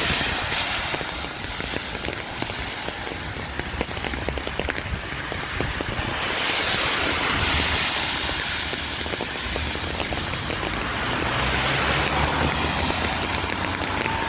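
Rainy-weather outdoor noise: a steady hiss of rain that swells twice, about six and eleven seconds in, over a low rumble of wind buffeting the microphone.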